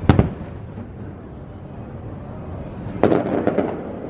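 Fireworks display: an aerial shell bursts with a sharp bang just after the start, then about three seconds in a half-second spell of rapid crackling, over a steady low rumble of distant bursts.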